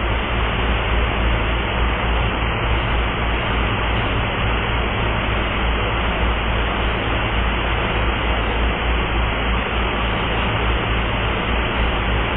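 Steady rushing noise with a deep low rumble, unchanging in level.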